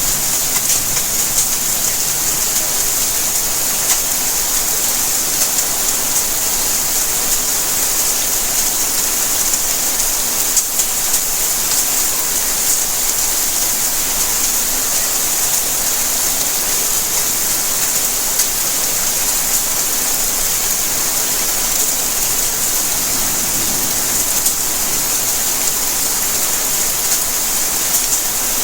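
Steady rainfall: an even hiss of rain with scattered drops striking surfaces.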